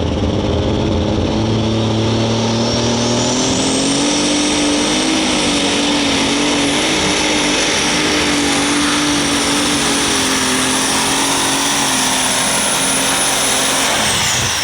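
Triple-turbocharged John Deere 8330 super stock pulling tractor under full power on a pull. The engine runs hard with a high turbo whine that climbs over the first few seconds, holds steady, and drops away near the end as the throttle comes off.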